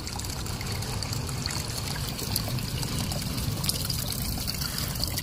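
Steady trickle of water, with a low hum underneath, from the tank of water in which a pressurized air-conditioner evaporator coil is submerged for a leak test.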